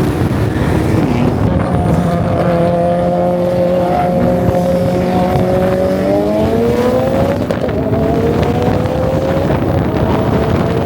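Car engine running under way over road and wind noise; its pitch climbs about six seconds in, drops back, then climbs again as the car accelerates.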